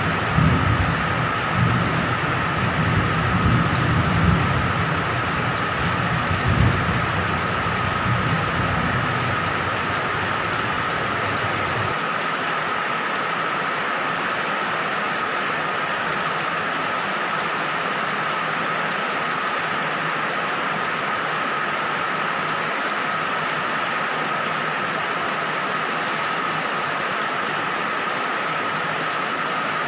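Steady heavy rain hissing, with a low rumble of distant thunder through the first dozen seconds that then falls away, leaving the rain alone.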